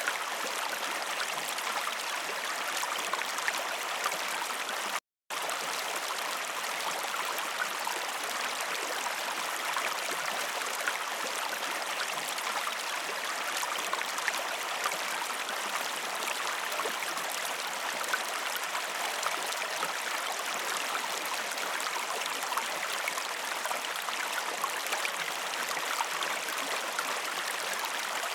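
Waterfall rushing steadily, a constant hiss of falling and splashing water. The sound cuts out completely for a moment about five seconds in, then resumes unchanged.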